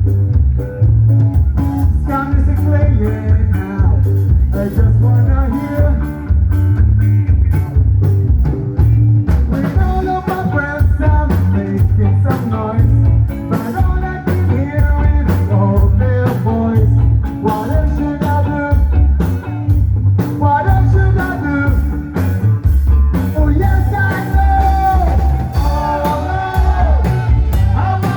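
Rock band playing a song: a voice singing over guitar, bass and drums with a steady beat, the singing coming in more strongly about ten seconds in.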